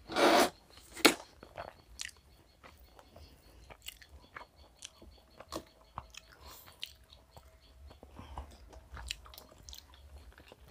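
Close-miked chewing and biting of chicken biryani eaten by hand, with many small wet clicks and crunches. A louder burst at the very start and a sharp snap about a second in stand out above the chewing.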